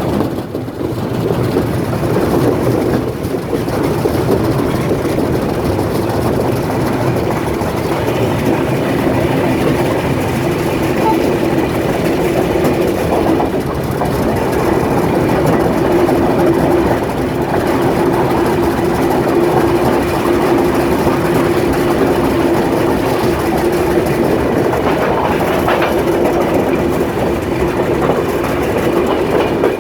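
A train running on the rails, a loud, steady rumble of wheels and cars with a steady hum under it.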